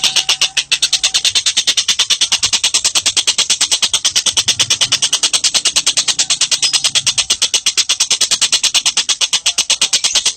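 Bird calling a fast, steady, high-pitched rattling trill of sharp repeated notes, about nine a second, with no break.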